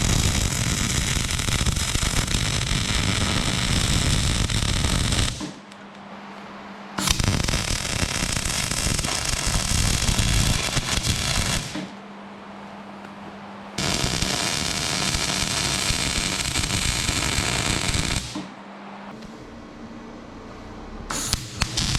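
Electric arc welding on steel: the crackling sizzle of the arc in three runs of about four to six seconds each, with short pauses between, and a fourth run starting near the end.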